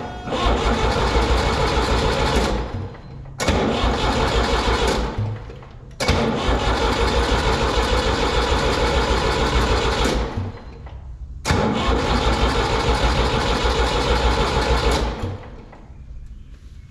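An engine's starter cranking it in four bursts of a few seconds each, with short pauses between, the engine not catching. The cranking pulls the battery voltage down toward 12 volts.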